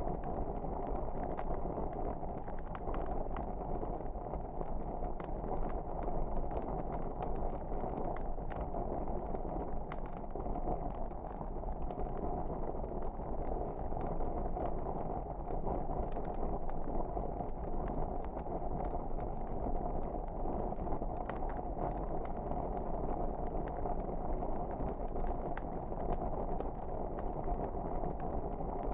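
Wood fire burning in a fireplace: a steady low rush of flames with frequent small crackles and pops.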